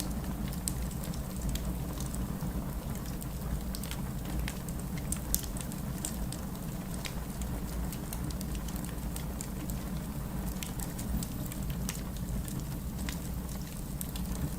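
Campfire of burning wood crackling, with many small sharp pops over a steady low rush and one louder pop about five seconds in.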